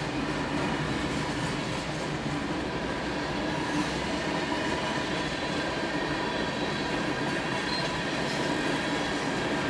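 Freight cars of a Norfolk Southern train, mostly tank cars, rolling steadily through a road crossing: steel wheels on rail making an even rumble, with a steady ringing tone over it, heard from inside a car.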